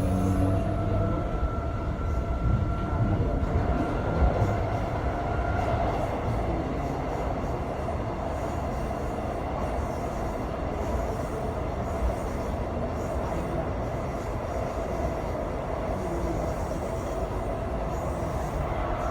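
Passenger train running, heard from inside the carriage: a steady rumble of wheels on track with a constant whine. A higher whine fades out about six seconds in.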